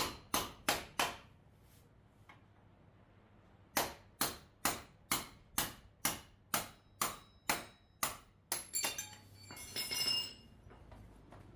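Hammer blows on metal, each with a short metallic ring. A few blows come at first, then a pause, then a steady run of about a dozen at just over two a second. A longer metallic rattling and scraping follows near the end.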